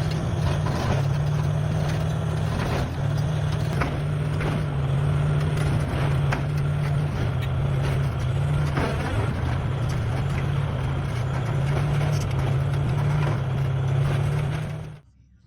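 Large bulldozer's diesel engine running steadily under load, with occasional sharp knocks. The sound cuts off abruptly near the end.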